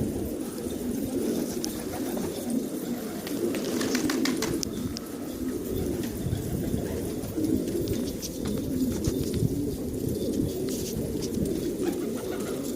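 A flock of pigeons cooing, many calls overlapping into a continuous low murmur, with a few light clicks about four seconds in.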